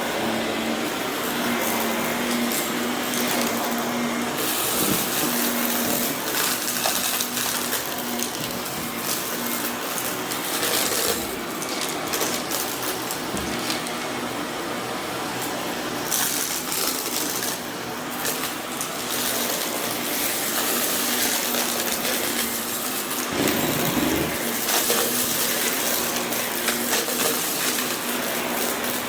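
Vacuum cleaner running steadily over berber carpet, with a constant motor hum and rattling crunches as it sucks up grit and debris left from moving.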